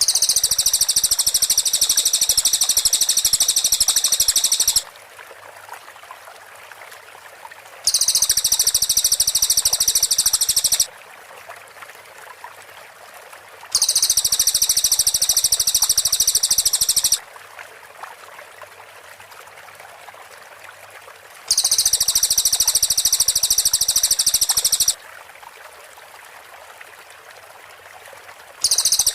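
Cililin song: bursts of rapid, tightly packed high notes, a fast rattling "shooting" trill, each burst lasting three to five seconds and coming five times with pauses between. A steady faint hiss, like running water, fills the gaps.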